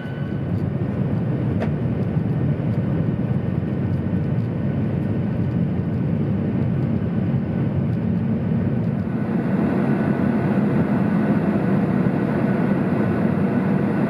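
Steady rumble of a passenger train running, heard from inside the car, growing a little louder about nine seconds in.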